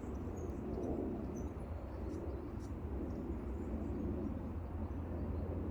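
Steady low outdoor rumble, with faint, scattered high bird chirps over it.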